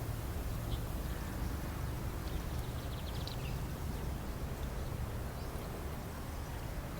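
Steady low rumbling background noise, with a short run of faint, quick ticks about three seconds in.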